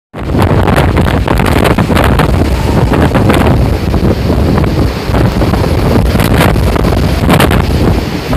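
Typhoon-force wind blowing hard in repeated gusts, loud and buffeting the microphone.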